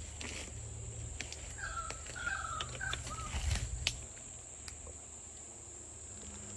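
A bird calling a short series of notes about two seconds in, over a steady high insect drone and low wind rumble on the microphone. Scattered clicks and rustles come through, loudest around three and a half seconds in.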